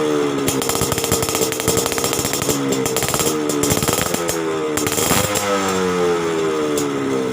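Yamaha RX-King two-stroke single-cylinder motorcycle engine revving through an Alfa-type aftermarket exhaust silencer. The pitch is held high with quick throttle blips, then falls back about five seconds in.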